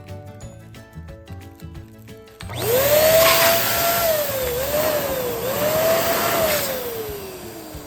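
Electric balloon pump running as it inflates a balloon: it starts with a rising whine about two and a half seconds in, the pitch dips twice, then it falls away near the end as the motor winds down. Quiet background music plays beneath.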